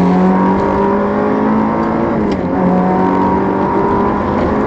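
Ferrari 360's flat-plane V8 running through a Tubi exhaust under way, its note climbing slowly, dipping briefly about two seconds in, then holding steady.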